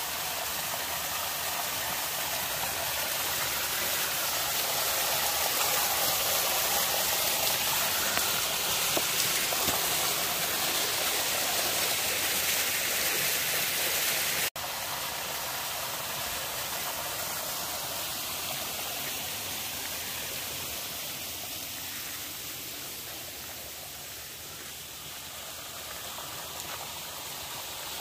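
Steady rain falling, an even rushing hiss. It breaks off for an instant about halfway through, then carries on a little quieter.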